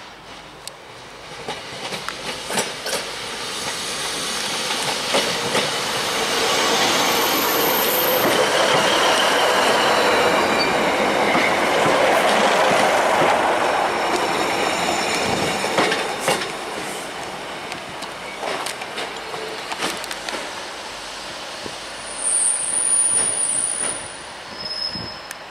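A train passing on the rails, growing louder over several seconds and then fading, with wheels clicking over rail joints and a thin high squeal from the wheels.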